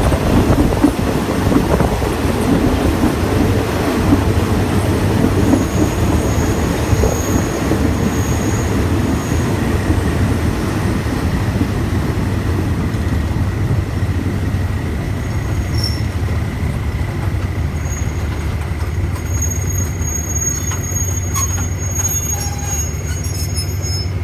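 Passenger train running along the track: a steady rumble of wheels on rails, with a thin, steady high squeal from about halfway through.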